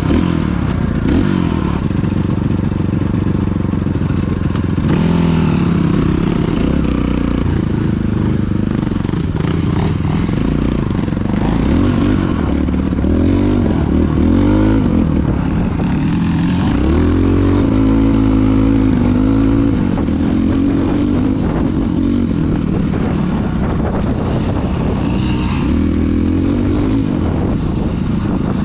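Dirt bike engine running, its pitch rising and falling again and again as it is revved.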